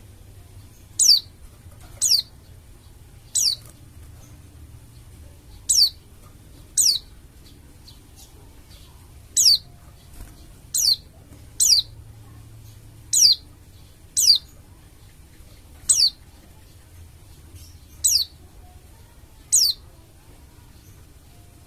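A pleci dakun Bali white-eye calling: a string of about fifteen short, sharp, very high notes, each sweeping quickly downward, coming one every second or two at uneven intervals.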